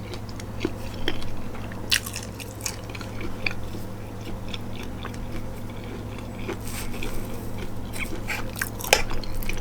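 A person chewing and biting mouthfuls of jambalaya and cornbread close to the microphone, with scattered small crunches and mouth clicks. A steady low hum runs underneath.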